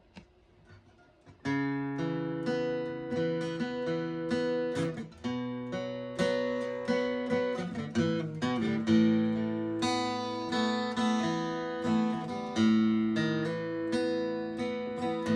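Acoustic guitar strumming chords as an instrumental intro, coming in about a second and a half in after a few faint noises.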